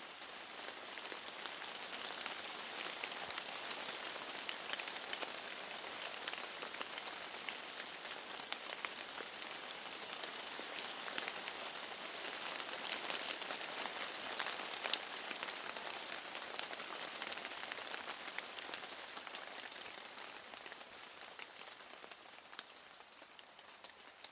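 Steady rain falling against a window: an even hiss dotted with many small drop ticks, easing off over the last few seconds.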